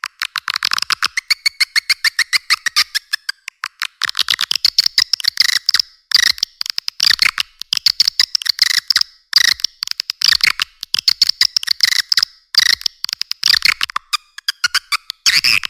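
Edible-nest swiftlet calls from a swiftlet-house lure-call recording: rapid chattering trains of clicking chirps in bursts of about a second with short gaps, the bursts shorter and more broken up from about midway. Nothing is heard below a high chirping range, as the low end is cut out of the recording.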